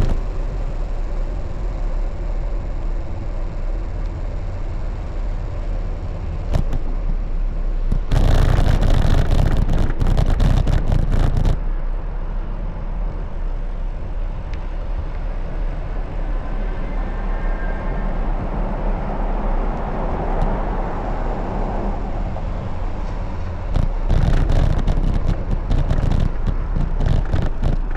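Road and wind noise on a camera moving along city streets on a bicycle, with traffic running alongside. It turns louder and rougher twice, for a few seconds each time, about eight seconds in and again near the end.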